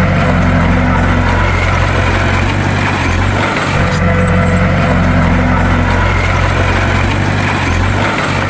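Bulldozer's diesel engine running steadily with a low, even drone. The same stretch of sound repeats about every four and a half seconds.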